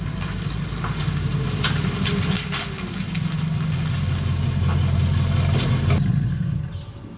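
Triumph Stag's 3.0-litre V8 idling steadily at the twin tailpipes, with a few light clicks over it. The engine note fades out about six and a half seconds in.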